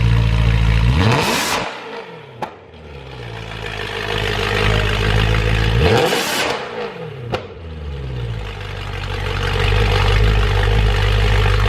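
BMW E92 M3's S65 V8 running through a fully straight-piped Valvemaster catback exhaust with no cats or resonators: idling, then blipped twice, the revs shooting up and falling back to idle, each blip followed by a sharp crack as the revs drop.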